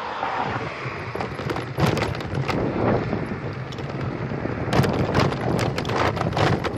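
Wind rushing over the microphone while riding a bicycle, with irregular crackling clicks and rattles that thicken from about two seconds in.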